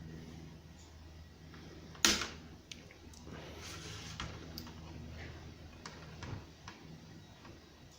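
Plastic clicks as the outer casing of a car climate control unit is prised past its clip tabs with a small flathead screwdriver: one sharp snap about two seconds in, then a few lighter clicks.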